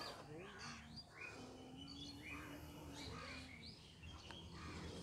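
Faint bird calls: a run of short, downward-sliding chirps repeating every half second or so, with a faint distant voice underneath.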